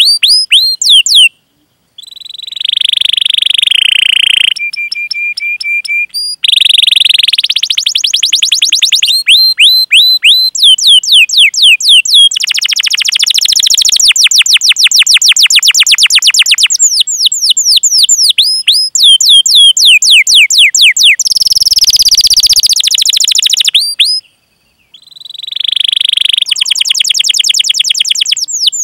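Canary song: fast runs of falling whistled 'cuit cuit' notes, several a second, alternating with dense rolling trills and one short steady whistled note. The song cuts off twice, each time for about a second, near the start and near the end.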